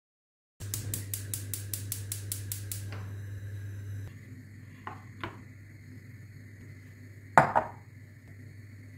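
Kitchen sounds during breakfast preparation: a quick even run of sharp taps, about five a second, over a low hum, then two light knocks and one loud clink of a dish or glass being set down.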